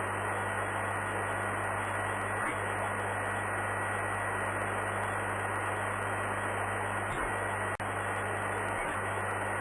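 Steady radio static hiss with a low hum from an air traffic control radio channel between transmissions, with a brief drop-out about eight seconds in.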